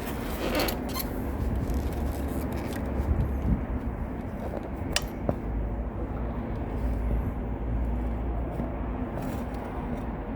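Steady low rumble of ambient noise being recorded for a noise measurement, with a faint hum and a few scattered clicks.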